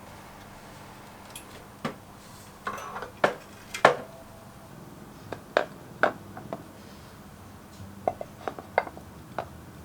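Dishes being handled and set down: a dozen or so irregular clinks and knocks, some briefly ringing, the loudest about four seconds in.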